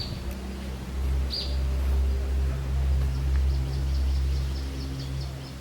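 Two short shrill high bird calls in the first second and a half, then a fast run of short high ticking notes from about halfway, over a steady low engine-like rumble that is the loudest sound.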